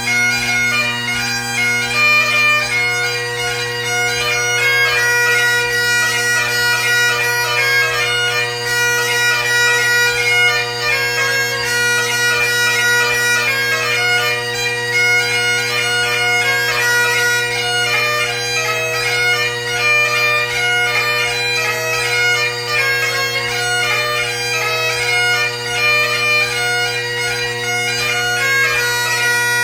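Great Highland bagpipe playing a quick competition tune: the drones hold a steady low tone under the chanter's fast, ornamented melody.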